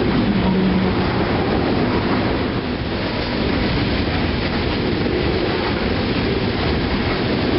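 Loaded refrigerated boxcars of a CSX freight train rolling past, a steady noise of steel wheels on the rails.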